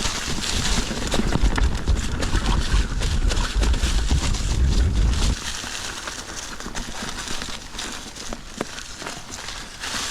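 Mountain bike descending a rough, leaf-covered rocky trail: tyres crunching and clattering over leaves and rocks, with many small knocks and rattles from the bike. Wind rumbles on the microphone for about the first five seconds, then drops away suddenly.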